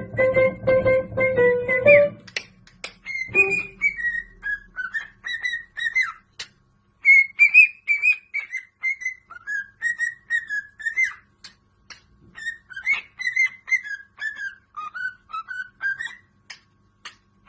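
A parrot whistling a tune in a run of short, gliding notes, pausing briefly a couple of times, with scattered sharp clicks between notes. The first two seconds hold a short burst of plucked-string music before the whistling starts.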